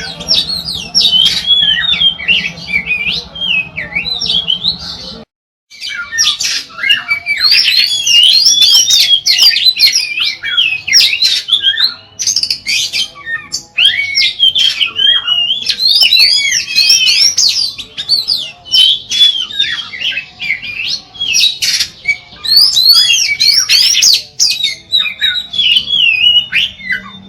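Oriental magpie-robin (kacer) singing a long, fast, varied song of rapid whistled and chattering phrases that sweep up and down. The song cuts off abruptly for about half a second just after five seconds in, then carries on.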